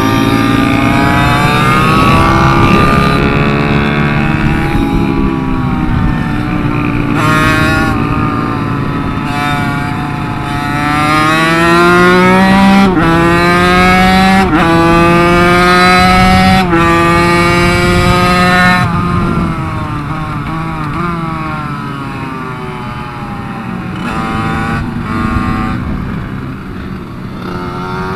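KTM 65SX two-stroke minibike engine revving hard under acceleration, its pitch climbing and dropping suddenly at each upshift, then falling away as the throttle is rolled off in the second half.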